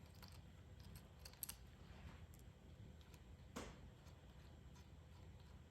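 Near silence with a few faint, short clicks of small metal horn-contact parts being handled and taken apart; the clearest click comes a little past halfway.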